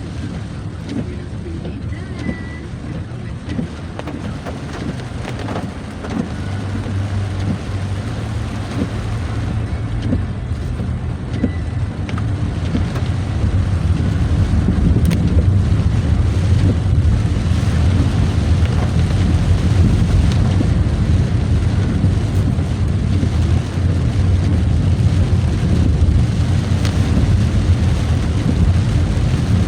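A vehicle driving along a road: a steady low engine and road rumble with a noisy hiss above it, growing louder over the first half and then holding.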